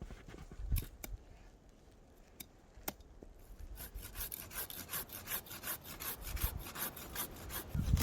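A few separate sharp clicks, then from about three and a half seconds in a hand pruning saw cutting through wood with quick, even strokes, about three to four a second, growing louder.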